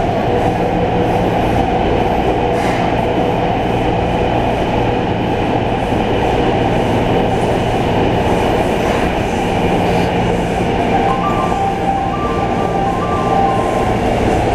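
Passenger train running, a steady loud rumble of wheels on rail with a low hum. A few short, high, steady tones sound about eleven seconds in.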